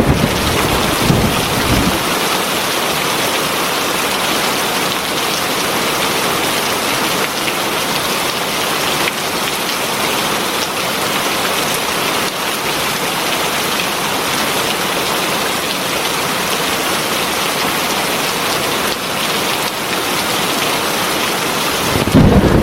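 Heavy rain pouring steadily, with a low rumble in the first two seconds and again at the very end.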